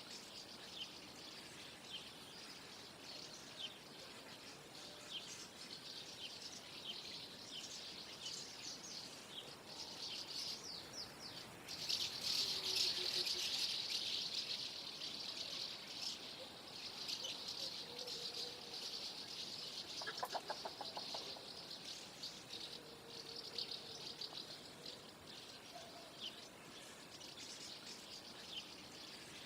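A flock of common house martins twittering, many short chirps overlapping, at their busiest and loudest about twelve seconds in. A brief rapid rattle of ticks comes about twenty seconds in.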